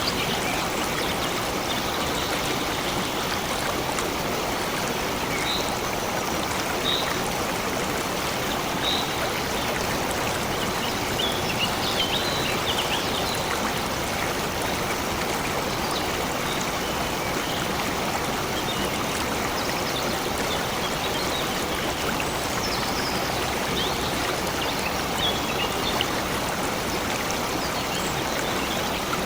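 Water of a stream flowing with a steady rushing and trickling, and birds giving short, faint chirps now and then above it.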